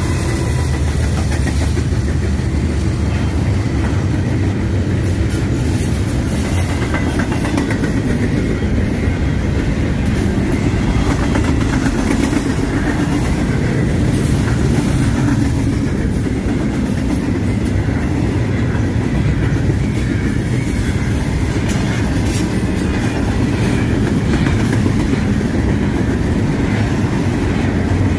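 CSX freight train rolling past: a steady, loud rumble of railcars with the clickety-clack of wheels over rail joints.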